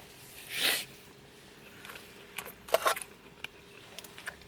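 Eating sounds from a bowl of meat oden: a short slurp about half a second in, then a few light clicks and taps of utensils.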